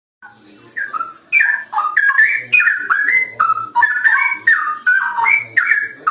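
Straw-headed bulbul (cucak rowo) singing a loud, rich warble of gliding whistled notes. The song starts faintly after a moment's silence and runs without a break from about a second in.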